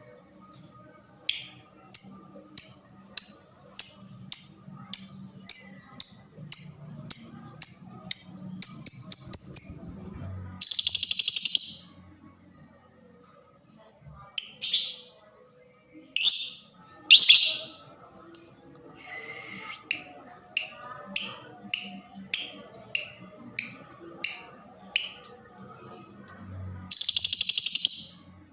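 Lovebird singing. A run of sharp, evenly spaced chirps, about two a second, speeds up into a quick trill, then breaks into a long buzzy rattle. After a few single calls, a second run of chirps leads into another long rattle near the end. This is the 'ngetik' ticking that goes on into the 'ngekek' chatter that Indonesian lovebird keepers look for in an agitated bird.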